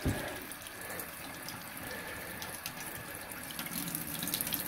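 Hot water tap running with a steady flow of water, turned on to check that hot water is coming through. A short knock at the very start.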